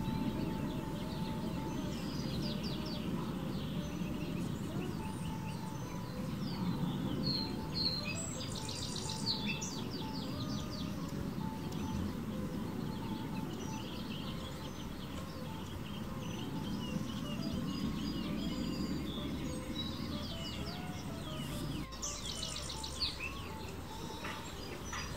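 Small backyard songbirds chirping and twittering in short repeated calls and trills, over a steady low background rumble. Quick runs of high notes come about a third of the way in and again near the end.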